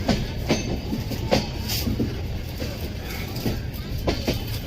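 Humsafar Express passenger train running on the track: a steady low rumble with irregular sharp clacks as the wheels pass over rail joints.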